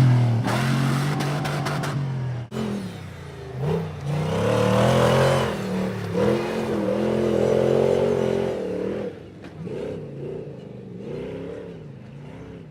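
Off-road truck engine revving hard, its pitch rising and falling again and again as the throttle is worked, dropping to a quieter, wavering run after about nine seconds.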